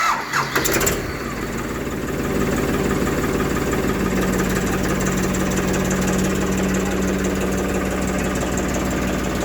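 Diesel engine of a tractor or backhoe loader running steadily, growing a little louder about two seconds in, with a few short knocks in the first second.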